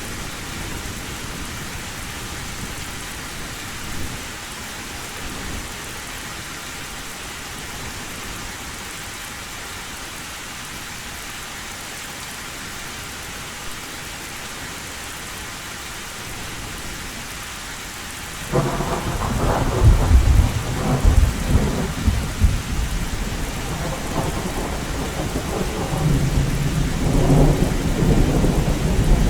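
Steady heavy rain drumming on an old tin roof. About two-thirds of the way in, thunder breaks suddenly and rumbles loudly, rolling on with repeated peaks to the end.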